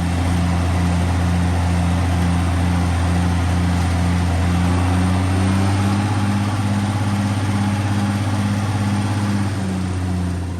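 Tractor engine running steadily while mowing hay with a disc mower. It has a strong low hum and a throb about twice a second, and the pitch rises slightly about halfway through.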